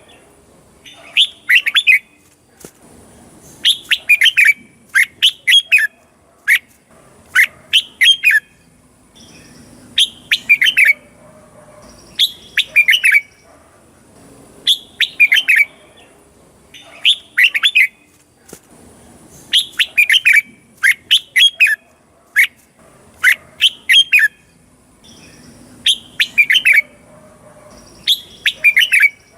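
Red-whiskered bulbul singing: short, bright, chirpy phrases of a few quick notes, repeated in groups with brief pauses between them.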